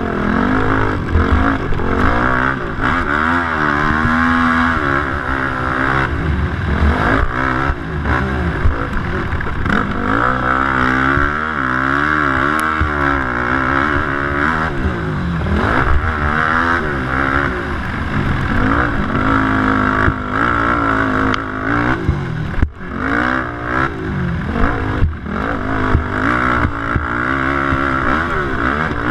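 Racing quad engine revving hard and easing off again and again, its pitch rising and falling with each burst of throttle, with sharp knocks and clatter throughout.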